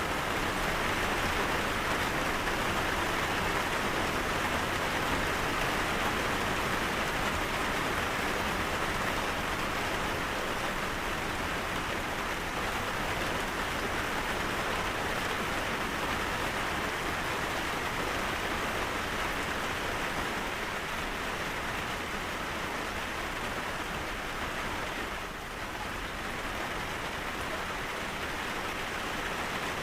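Steady rain falling, an even hiss with a brief slight dip about 25 seconds in.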